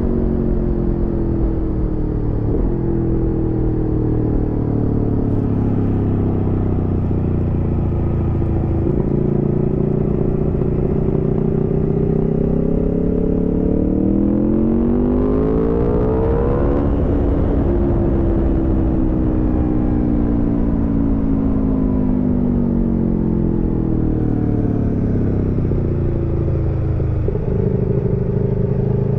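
Aprilia Tuono V4 motorcycle's V4 engine under way. The engine note falls, then about halfway through rises steeply as the bike accelerates, drops suddenly at the top as it shifts up, and falls slowly as it slows. Near the end the pitch steps up again.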